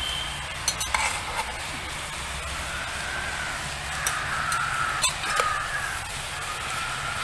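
Steady hiss of food cooking over a campfire in a cast-iron Dutch oven, with a few sharp clicks. From about three seconds in, a bird calls repeatedly in short calls.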